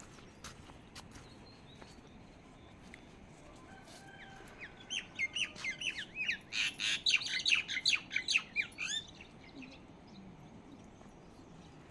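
A bird calling: a fast run of short chirps, about five a second, starting a little before the middle and stopping after about four seconds.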